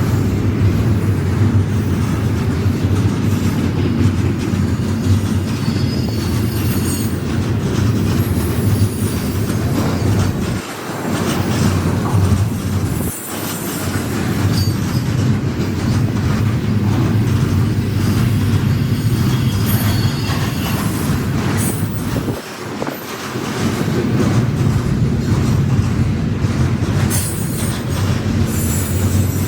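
Intermodal freight train rolling past: a steady, loud rumble of railcars on the rails, with intermittent high-pitched wheel squeal and a few brief dips in the rumble.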